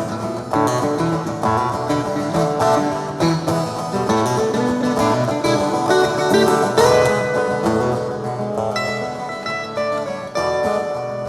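Guitar music: an instrumental passage of plucked guitar notes over held chords.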